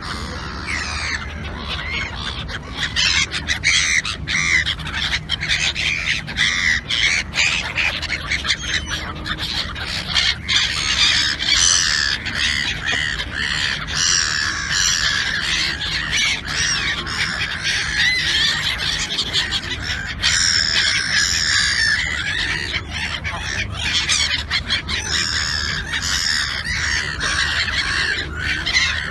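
A flock of birds calling all at once, a dense chorus of many overlapping calls.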